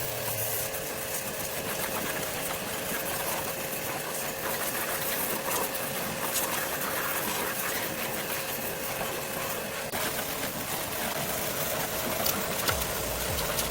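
A small motor or engine running steadily, with a light rapid rattle over a steady hum.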